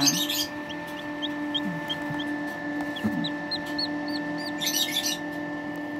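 Newly hatched Serama bantam chick peeping: a run of short, high cheeps, several a second, with a brief pause in the middle, over a steady hum from the brooder. A short rustle near the end.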